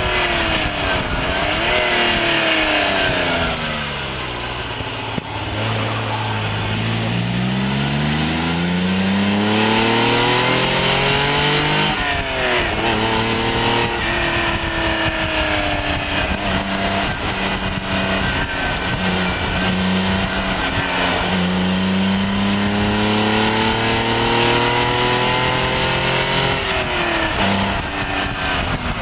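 Lancia Stratos HF's Ferrari Dino V6 heard from inside the cabin, pulling through the gears: the engine note falls as it slows about five seconds in, climbs steadily under acceleration, drops sharply at a gear change about twelve seconds in, then climbs again and dips at another shift near the end.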